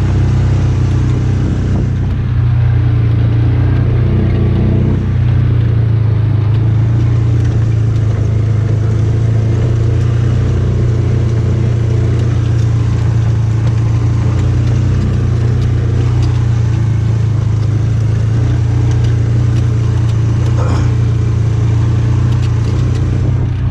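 Polaris utility vehicle's engine running steadily under way, a constant low drone.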